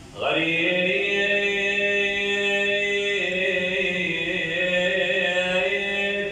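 A male reciter's voice chanting a long, drawn-out mourning note that slides up into pitch at the start and is held steady, shifting to a new held pitch about three seconds in.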